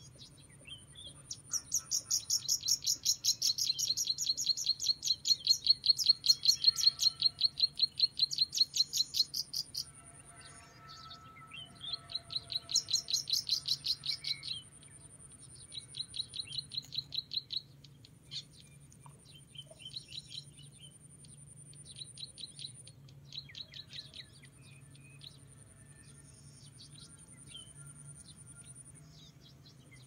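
A bird giving long runs of rapid, evenly repeated high chirps, about four or five a second, loudest in the first ten seconds and breaking into shorter, quieter runs later. A thin, high, steady tone sounds in long stretches behind it.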